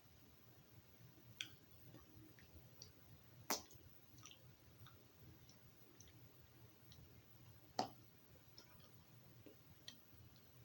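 Near silence with a few faint, irregular clicks, the loudest about three and a half and nearly eight seconds in: small mouth and lip sounds of someone quietly eating a piece of dark chocolate.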